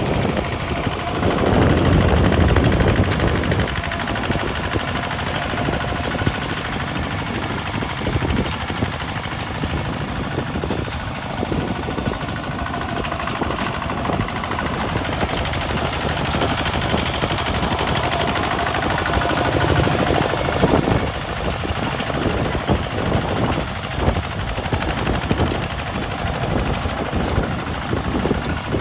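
Kubota RT single-cylinder diesel engine of a two-wheel hand tractor running with a rapid, even beat, swelling louder about two seconds in and again around twenty seconds in.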